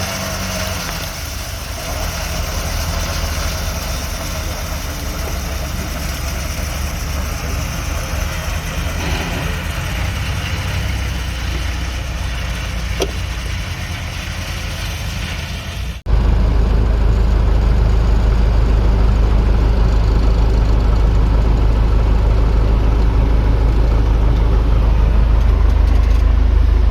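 Tractor engine running steadily. About sixteen seconds in, the sound cuts abruptly to a louder, deeper engine drone.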